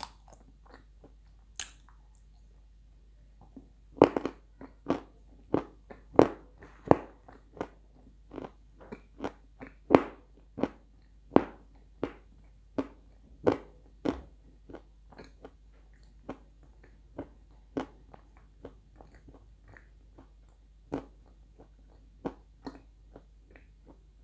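Close-up chewing and crunching of dry chunks of edible clay, a series of short crisp crunches. A few faint ones at first, then a dense run of loud bites and crunches from about four seconds in, thinning out after about fourteen seconds.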